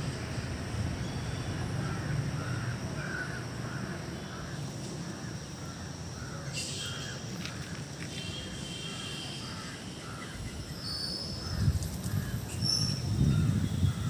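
Crows cawing over and over, with a few higher, thinner bird chirps in the middle. A low rumble swells near the end.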